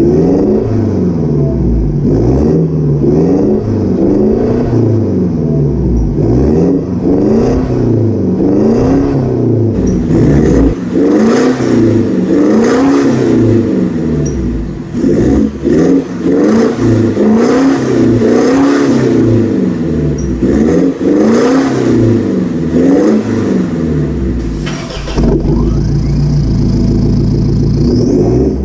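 2017 Mitsubishi Montero's 2.4 turbo-diesel engine revved up and down again and again, about once a second, through an aftermarket full turboback exhaust.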